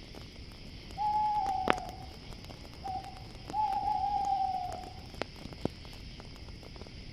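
An owl hooting: a long hoot about a second in, a short one, then another long one, each sliding slightly down at the end. Crickets chirr steadily, and a campfire gives a few sharp pops and crackles.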